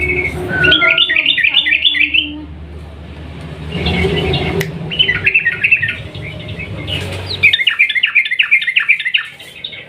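Yellow-vented bulbul singing in fast, rattling runs of rapidly repeated notes (a long 'ropel'), in three bouts with short pauses between, over a low steady hum.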